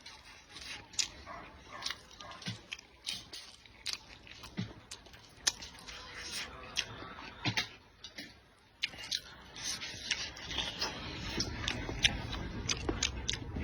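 A person eating close to the microphone: chewing and biting, with many short, wet mouth clicks. A low steady rumble comes up about ten seconds in.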